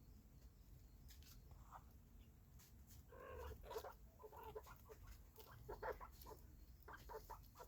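Quails squabbling over millet, giving faint, short chattering calls in quick clusters from about three seconds in, with a few light clicks before them.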